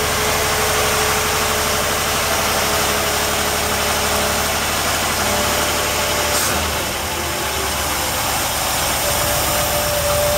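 Carbureted Chevrolet 383 stroker V8 idling steadily, heard from the open engine bay. It is still cold, held at a raised idle on the choke's fast-idle cam.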